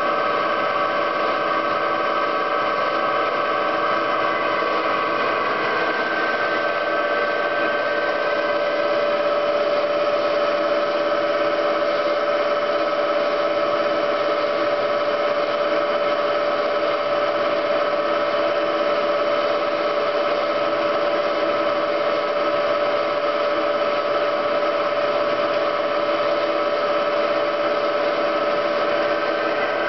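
Homemade CNC machine's spindle motor running steadily with a constant whine, drilling as the Z axis is fed down by hand; the pitch shifts slightly about six to nine seconds in.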